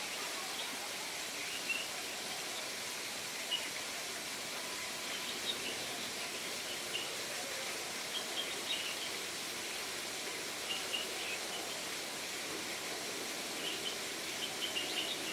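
Bulbuls calling in short, high chirps, scattered and in little clusters, over a steady outdoor hiss.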